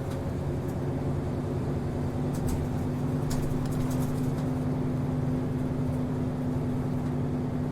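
Interior sound of an Asahikawa Denki Kido route bus, its diesel engine running with a steady, unchanging hum. A few short sharp ticks and rattles are heard over it.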